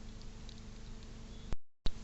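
Steady background hiss with a faint hum and a few light ticks. About one and a half seconds in, a sharp click cuts the sound to dead silence for a moment, and a second click brings it back: a cut between recordings.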